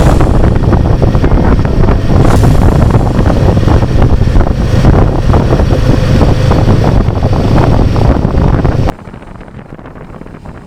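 Heavy wind rush on an action camera's microphone on a moving motorcycle, over the low running of a Royal Enfield Himalayan 450's single-cylinder engine. About nine seconds in it cuts off abruptly to a much quieter sound.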